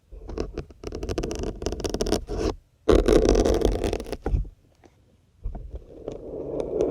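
Syringes being pulled out of a dense grey sponge: three rasping, crackly scrapes as the barrels drag back through the foam, the middle one the loudest.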